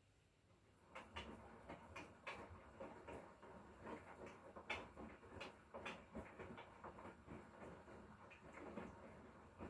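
Hotpoint Core inverter-motor washing machine working through its cycle, faint: irregular soft knocks and clicks from the tumbling wash, starting about a second in.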